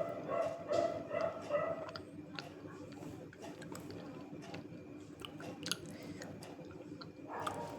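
Close-up chewing and crunching of a dry chunk of clay (multani mitti), with many short crisp crackles. A pitched background call sounds during the first two seconds.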